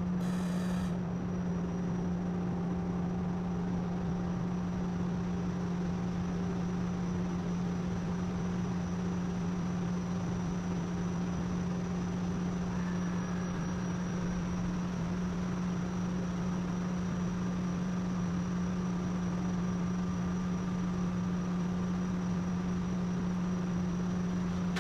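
A steady low machine hum at an even level, with a brief buzzy sound about half a second in.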